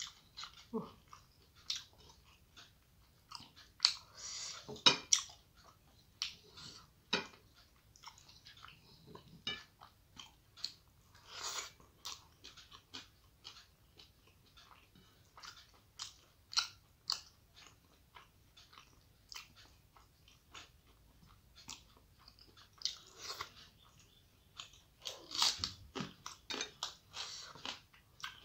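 Close-miked eating sounds: a person chewing mouthfuls of rice and mashed fish, with irregular wet smacks and short clicks. They are busiest about four seconds in and again over the last few seconds.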